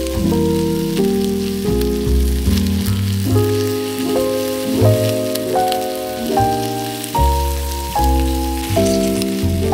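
Chicken drumsticks sizzling and crackling in hot oil in a frying pan. They are heard under background music, a melody with a bass line whose notes change about twice a second.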